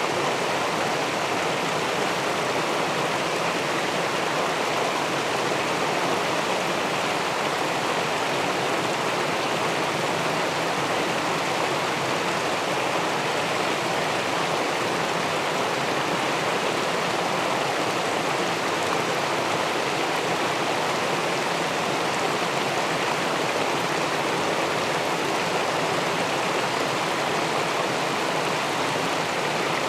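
River water rushing steadily below a small weir, an even unbroken wash with no separate splashes.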